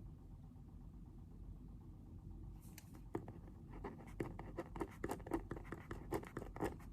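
Pen writing on paper: a quick run of short scratching strokes starting about three seconds in, over a low steady background hum.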